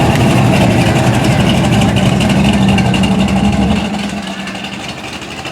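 A car engine running with a steady low rumble, which drops away about four seconds in.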